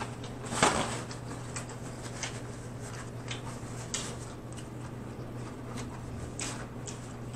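Close-miked mouth sounds of a person chewing broccoli: irregular wet crunches and clicks, with one louder crunching bite about a second in. A steady low hum sits underneath.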